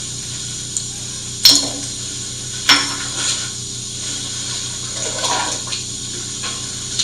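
Magnetic drill with an annular cutter running through thick steel plate: a steady motor hum with a hiss, broken by two sharp knocks about a second and a half and nearly three seconds in, and a short rattle around five seconds in.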